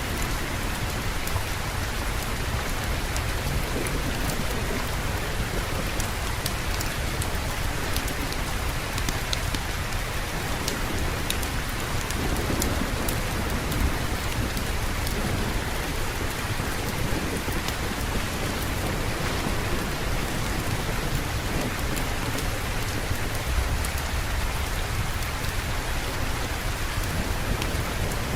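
Steady heavy rain falling, with a continuous low rumble underneath and scattered sharp ticks over the hiss.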